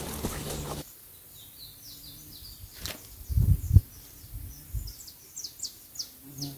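Birds chirping: a long, irregular run of short, high chirps, each sliding downward. A few low thumps come about three and a half seconds in.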